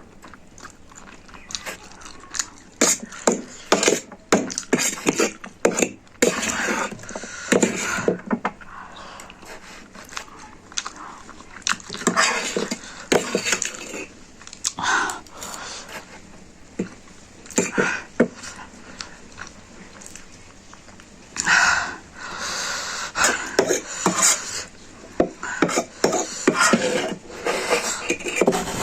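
A person eating spicy instant noodles close to the microphone: chewing, with utensils clicking against the dish in many short, irregular knocks.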